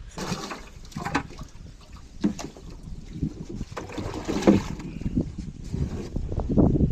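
Wind rumbling on the microphone aboard a small boat, with scattered short knocks and clunks, the loudest about four and a half seconds in.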